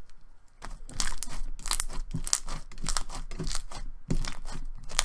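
Glossy slime being squished and stretched by hand, giving a run of wet crackly clicks and pops. The slime is thinner than a thick glossy slime should be.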